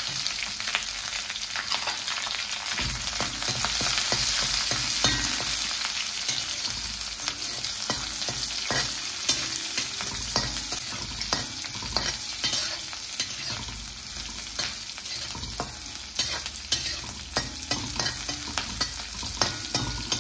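Sliced shallots and green chillies frying in hot oil in a cheenachatti (wok), a steady sizzle while they are stirred with a spatula that scrapes and taps the pan. The taps grow louder and more separate in the last few seconds.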